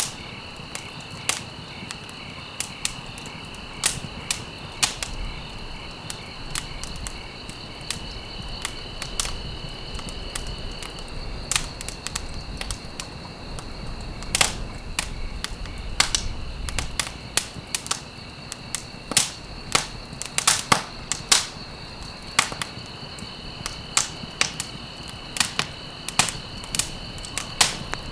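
Wood fire in a fireplace crackling, with irregular sharp pops and snaps, several a second at times, over a low rumble of the burning.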